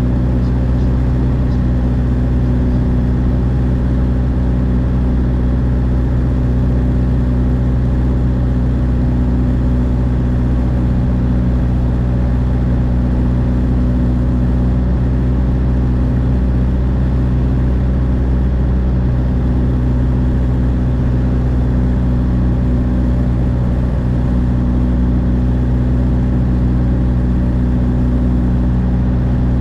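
Light aircraft's piston engine and propeller running steadily with an even drone.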